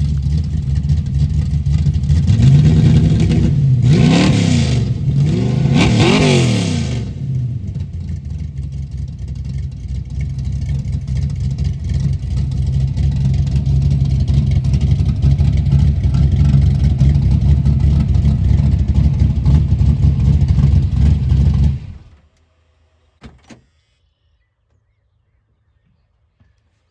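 Old carbureted car engine idling, revved three times in quick succession a few seconds in, then idling steadily until it is switched off about three-quarters of the way through. A single short knock follows in the quiet.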